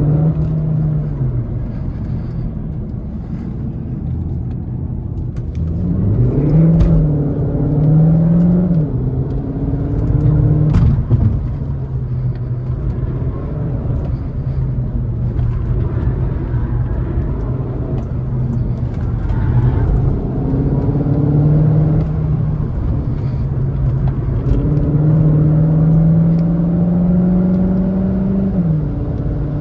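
Cupra Formentor e-Hybrid 245's turbocharged four-cylinder petrol engine being driven hard, its revs rising and falling several times. The engine climbs about six seconds in, and again in a long steady pull near the end that drops off sharply.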